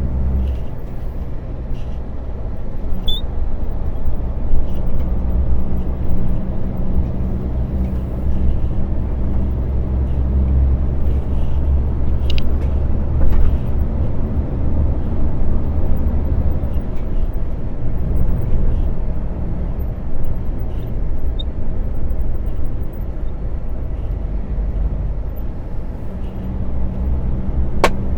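Truck's diesel engine running steadily while driving, with road and tyre noise; a short sharp click near the end.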